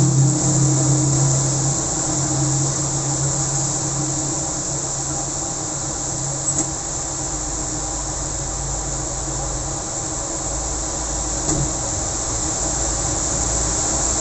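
Steady hiss of heavy rain and traffic on a wet road. A passing vehicle's engine hum fades out in the first two seconds, a low rumble comes in later, and there are two faint knocks.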